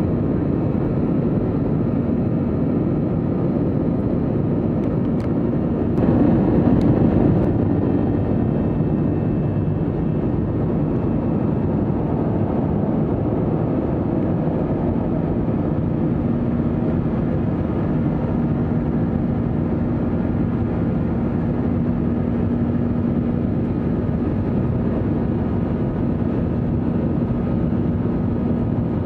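Steady jet engine and airflow noise inside the cabin of an Airbus A321-200 airliner, with a brief louder swell about six seconds in and a low steady hum that comes forward about halfway through.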